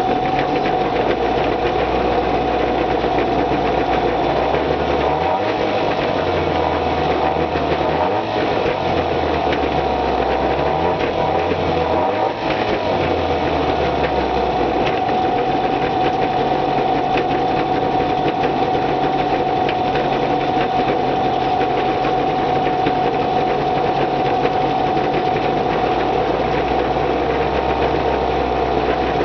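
Small outboard boat motor running steadily at idle on its first start after winter storage, with its idle revs being set. The lowest part of the running sound shifts and wavers for a while in the middle before settling again.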